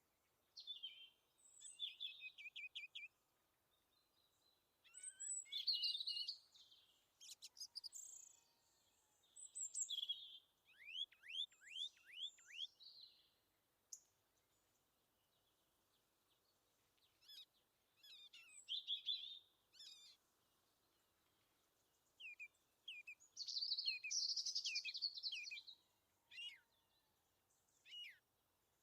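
Birds calling in short bouts of high chirps and trills, with quiet gaps between; about eleven seconds in comes a quick run of falling notes.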